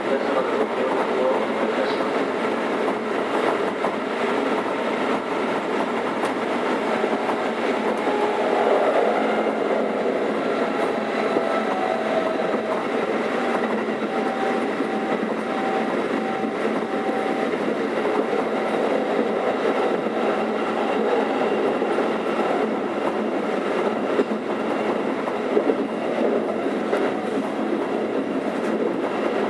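Keikyu 600 series electric train with Toyo VVVF traction equipment running, heard from inside the car: steady rolling and motor noise, with a faint steady tone coming in near the middle.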